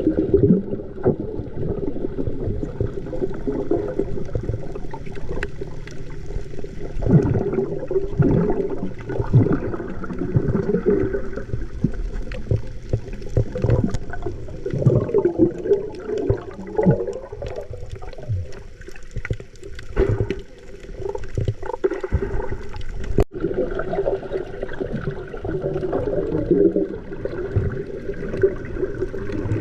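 Water sloshing and gurgling close against the microphone, in irregular surges, with a brief break about 23 seconds in.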